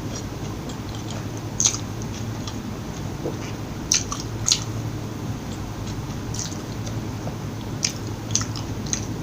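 Close-miked eating of McDonald's fast food: chewing with about seven short, sharp crunches at irregular intervals.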